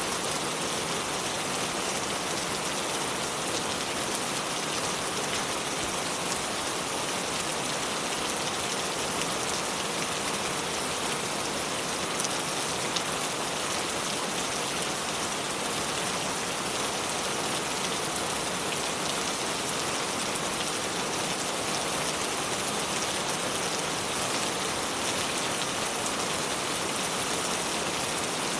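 River water flowing over stones: a steady, even rushing hiss that holds level throughout.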